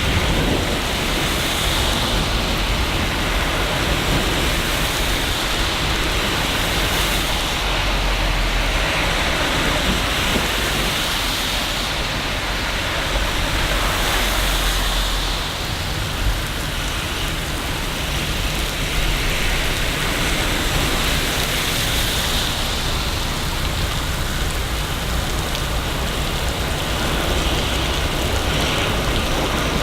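Steady, heavy rain falling, with a low rumble underneath that eases about halfway through.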